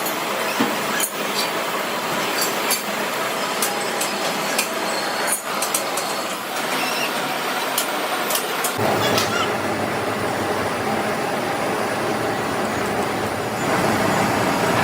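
Steady workshop machinery noise with scattered sharp metallic clinks; a lower, heavier running sound comes in about nine seconds in.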